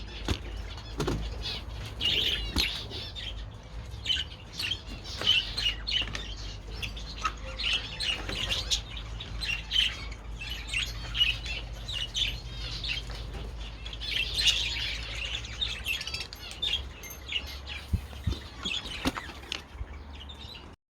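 A colony of budgerigars chattering and warbling without pause, with short clicks and wing flaps among the calls, over a low steady hum.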